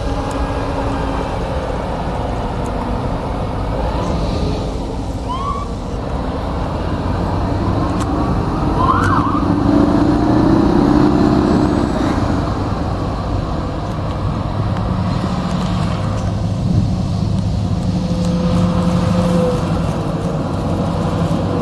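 Oshkosh Striker airport crash tender under way, its heavy engine and road noise running steadily, with a few brief rising siren yelps about four, five and nine seconds in.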